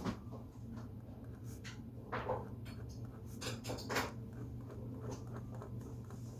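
Drawing on paper: a series of short, scratchy strokes, a few of them louder, about two seconds in and again near the middle, over a steady low hum.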